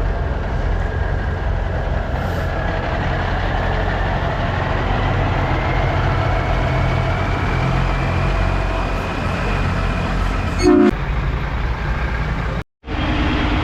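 Heavy diesel truck engine running steadily, with a slowly rising whine, and a short horn toot about eleven seconds in. The sound drops out for an instant near the end.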